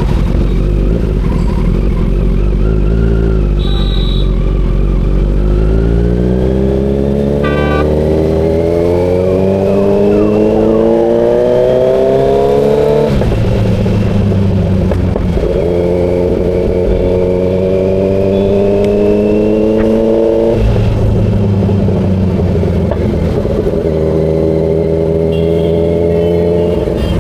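Kawasaki Z900 inline-four engine pulling hard under acceleration. Its pitch climbs steadily for several seconds, drops sharply at an upshift about 13 seconds in, climbs again, and drops at a second shift near 21 seconds.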